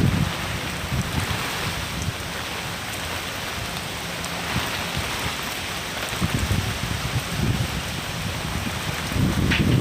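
Steady rain falling, a continuous hiss, with irregular low rumbles of wind on the microphone that grow stronger near the end.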